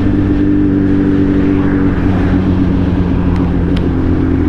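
Suzuki Hayabusa's inline-four engine running steadily under the rider at cruising speed, its note dipping slightly about two seconds in, with a hiss of wind and road noise over it.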